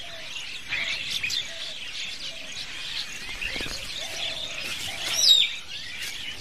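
Many small birds chirping and calling together in a dense chorus, with one louder, descending whistled call about five seconds in.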